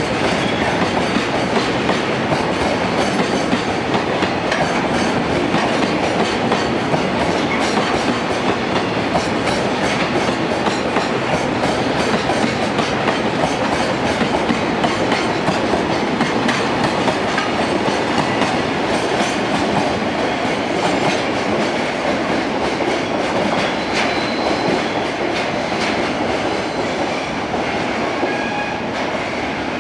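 Freight train rolling past, its wagons' wheels clacking steadily over the rail joints.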